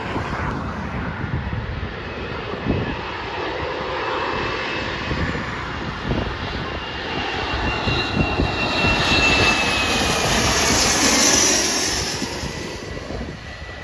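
Embraer ERJ-135 regional jet's twin turbofan engines passing by: the jet noise swells to its loudest about ten seconds in and then fades, with a high whine that slides down in pitch as it goes past. Wind buffets the microphone.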